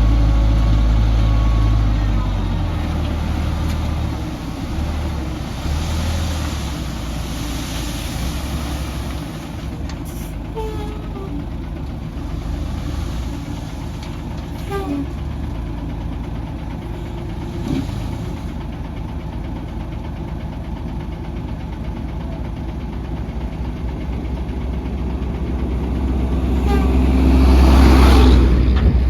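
Heavy diesel earthmoving machinery running. The engine is loud at first, settles to a steadier lower level, then builds up again near the end. A few short metallic squeaks or clanks come in between.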